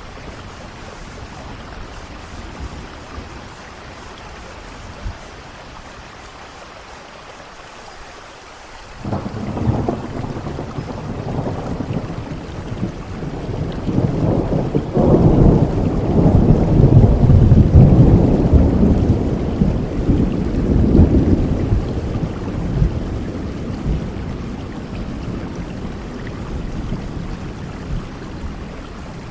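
Steady rain falling. About nine seconds in, a long roll of thunder breaks in suddenly, swells to its loudest past the middle, and slowly dies away toward the end while the rain goes on.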